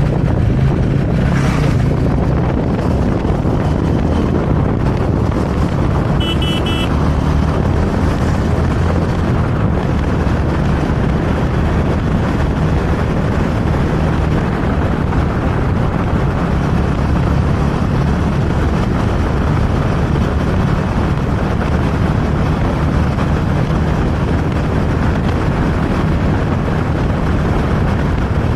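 Motorcycle engine running steadily under way, with an even rush of road and wind noise. A short high beeping sounds about six seconds in.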